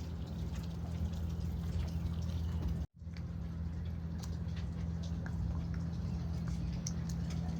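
Water dripping and trickling over a steady low hum, with small clicks scattered through it; the sound drops out completely for an instant about three seconds in.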